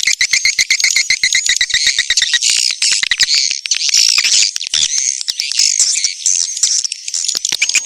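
Swiftlet calls: a fast train of dry clicks mixed with high twittering chirps, the clicking thinning out partway through as the twittering takes over, then picking up again near the end. This is a swiftlet lure-call recording of the kind played to draw swiftlets into a nest house.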